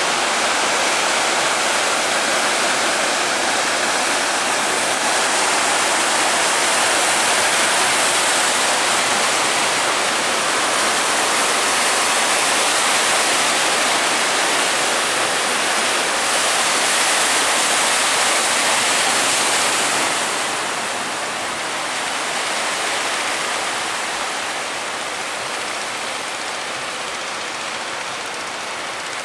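Big sea waves breaking and rushing water in an estuary mouth, a steady dense rushing noise that eases a little about two-thirds of the way through.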